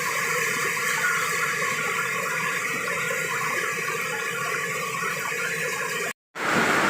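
Heavy rain falling, a steady watery hiss. It cuts out for a moment near the end, then comes back slightly louder.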